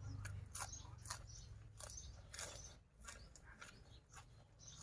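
A person chewing crunchy food close to the microphone: irregular soft crunches and wet mouth clicks.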